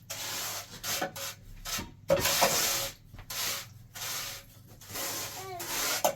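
Repeated scraping or rubbing strokes, about eight in six seconds, each roughly half a second long with short pauses between; a longer, louder stroke comes about two seconds in.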